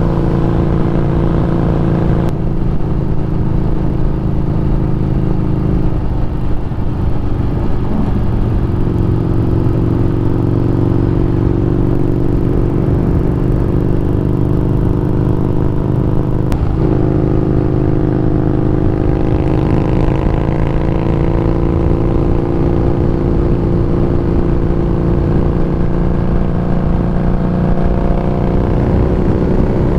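Harley-Davidson Street Rod 750's V-twin engine running under way, its note shifting a few times and then rising steadily in pitch through the second half as the bike accelerates.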